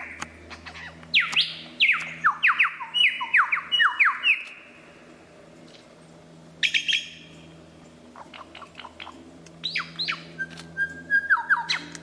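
Bird calls: quick runs of falling whistled notes, then a pause and scattered sharper chirps, with a short held whistle near the end. A faint steady hum lies underneath.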